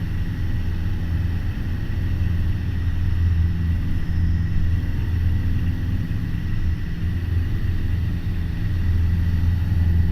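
Piper PA-28 Warrior's four-cylinder piston engine and propeller droning steadily, heard inside the cabin, at climb power just after a go-around.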